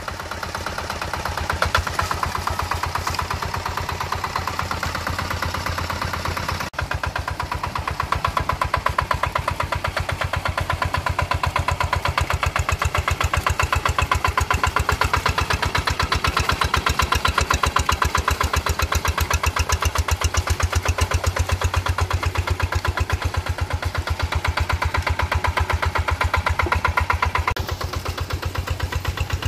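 A rice-paddy tractor's engine running with an even, rapid chugging beat. It breaks off for an instant about seven seconds in, then runs on, a little quieter near the end.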